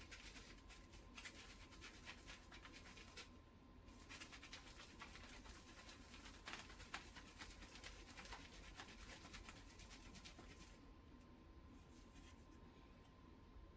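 Faint kitchen handling sounds: light scratching and small clicks of utensils and food being worked, dense for the first three seconds, then sparser taps, thinning out near the end.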